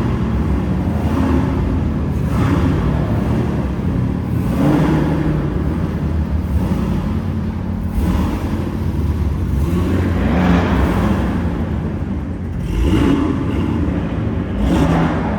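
Car engine running with a deep rumble, swelling several times as it is revved or pulls away.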